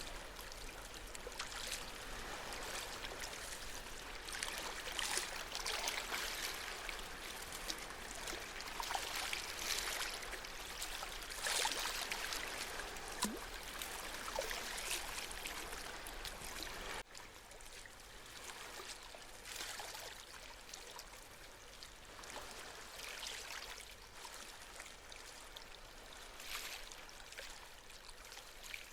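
Gentle sea waves washing in, swelling in uneven surges every few seconds. The wash drops suddenly to a quieter level about 17 seconds in.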